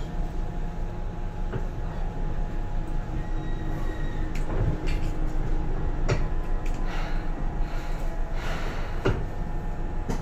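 Inside a Seibu 2000 series electric train car: a steady low rumble with a faint hum, broken by several short clunks and knocks.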